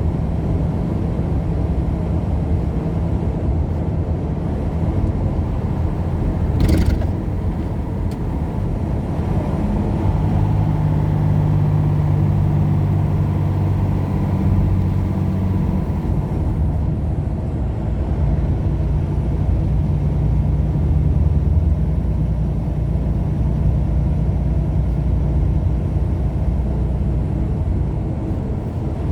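Car driving along the road: steady engine and tyre rumble with a low hum that shifts in pitch a few times, and a brief hiss about seven seconds in.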